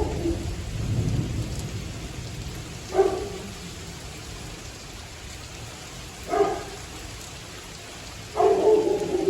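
Steady rain falling in a thunderstorm, with a low thunder rumble fading out in the first second or so. A dog barks about every three seconds, four times, the last bark longer.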